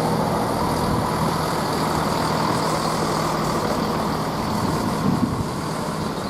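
Class 170 Turbostar diesel multiple unit standing after arrival, its underfloor diesel engines idling with a steady hum.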